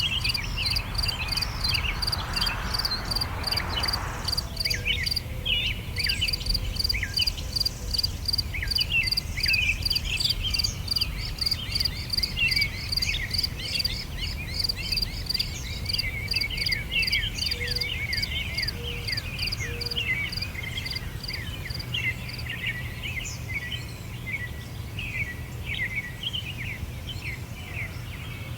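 Many small birds chirping and twittering in short falling notes. An insect trills in rapid, even pulses through the first half and stops, over a steady low rumble.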